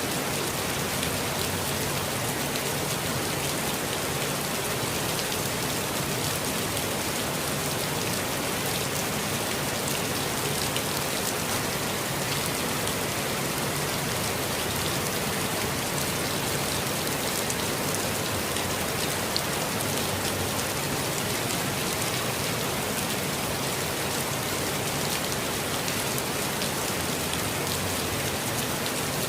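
Steady rainfall in a forest, a dense even patter of drops on leaves and ground with fine drip ticks, unchanging throughout.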